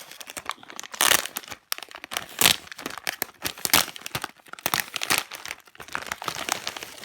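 Plastic packaging crinkling and rustling in irregular bursts as a squishy's bag is handled and pulled open.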